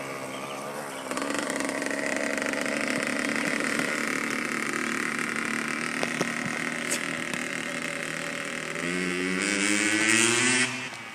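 Dirt bike engine running under throttle, its pitch climbing as it revs up near the end, then dropping off sharply.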